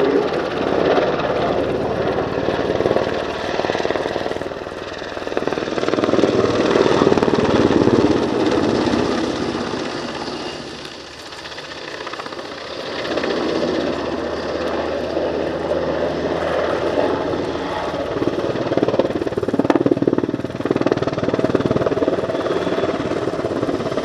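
NH90 twin-turbine helicopter flying a display pass: rotor and engine noise swelling and fading as it manoeuvres, dropping away briefly about eleven seconds in before building again.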